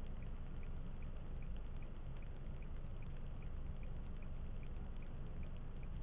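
Steady low road and engine rumble inside a moving car, with a light regular tick about two to three times a second.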